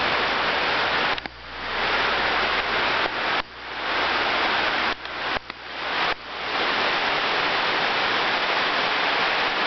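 Heavy rainstorm: a steady hiss of pouring rain that drops away sharply several times and swells back.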